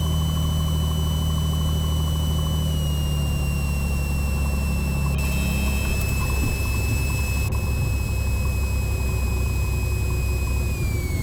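Cessna 182T's six-cylinder Lycoming engine and propeller droning in the cabin during the landing flare, the pitch sinking slowly as power comes back and dropping further near the end. A brief extra tone sounds about five seconds in.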